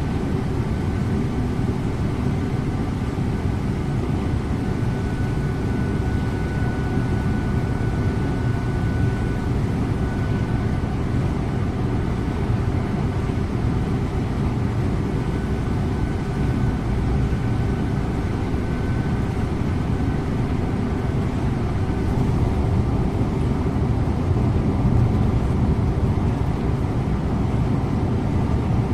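Scania InterLink coach driving at a steady speed, heard from the driver's seat: a constant rumble of engine and road noise, with a faint high whine that comes and goes in the first two-thirds.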